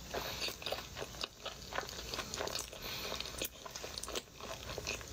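A person chewing a big mouthful of burrito close to the microphone: an irregular run of small clicking and smacking mouth sounds.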